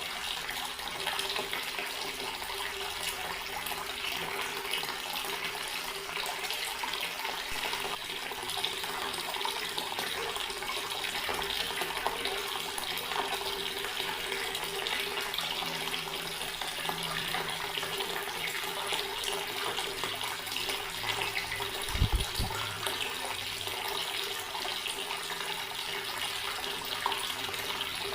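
Water running steadily from a tap, an even splashing rush. A brief low thump about 22 seconds in.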